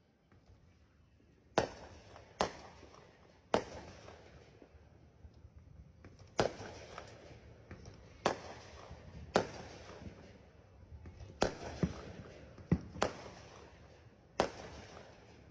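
Fireworks going off in a rapid series: about eleven sharp booms at uneven intervals, each trailing off in an echoing rumble and crackle.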